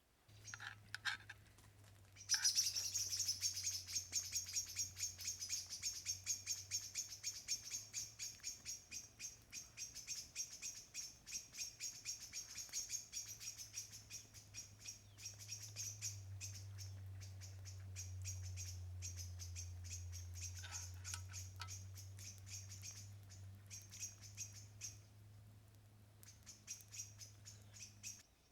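A small songbird chirping rapidly and continuously, with quick repeated high notes that thin out near the end, over a steady low hum.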